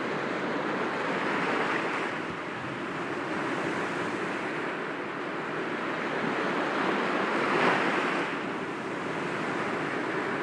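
Sea waves breaking gently against rocks, a continuous wash that swells and eases, with one louder wave about three quarters of the way through.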